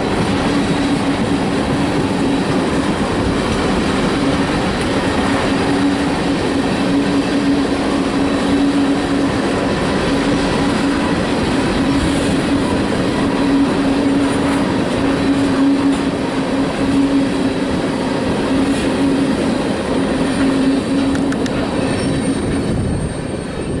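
Loaded tank cars of a freight train rolling past on jointed track, a steady rumble of wheels on rail with a constant low hum running through it. The noise eases off near the end as the last cars go by.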